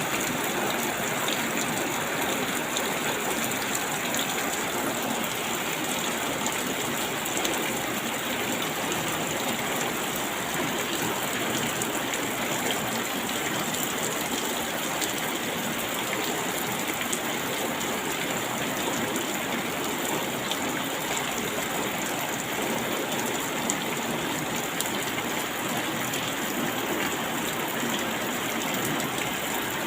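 Steady rain falling, an even hiss of many drops with faint patters here and there.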